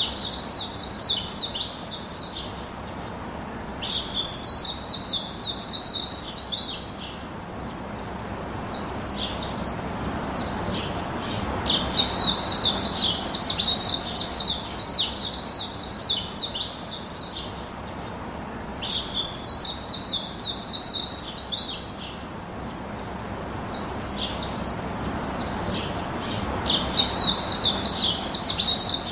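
Songbirds chirping in quick, rapid runs of notes, coming in bursts every few seconds over a faint steady background hiss.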